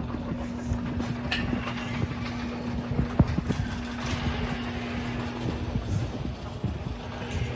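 Electric garage door opener running, its motor humming steadily while the door travels with irregular clicks, knocks and rattles. The doors are said to need lubrication. The hum breaks off briefly near the end and starts again.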